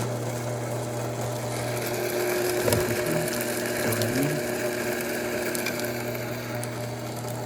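Built-in burr grinder of a Terra Kaffe TK1 fully automatic espresso machine running steadily, grinding beans for an espresso: a steady motor hum with a rough, crunching texture over it, a sign that the repaired grinder is working again.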